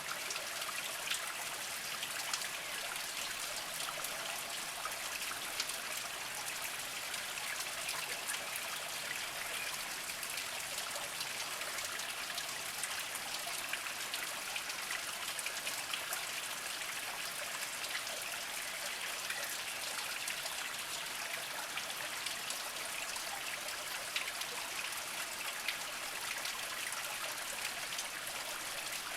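Small spring-fed stream trickling and splashing over mossy rocks, a steady patter of water with many small drips and splashes.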